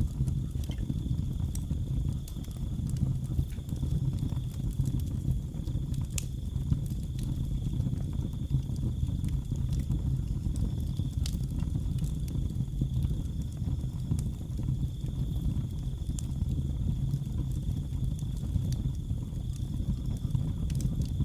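Wood fire in a fireplace crackling, with scattered sharp pops (the strongest about six and eleven seconds in) over a heavy low rumble, while crickets keep up a steady high trill.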